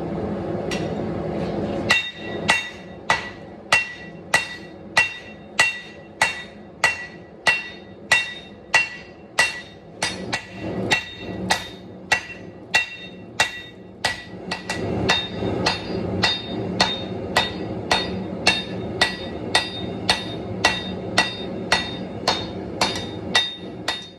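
Hand hammer striking a hot Damascus steel billet on an anvil to draw it out. The blows come in a steady rhythm a little under two a second, each with a bright metallic ring. A steady rushing noise runs underneath and is heard alone for the first two seconds before the blows begin.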